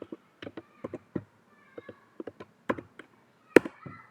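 Irregular clicking of a computer keyboard and mouse: a dozen or so sharp clicks, the loudest a little over three and a half seconds in.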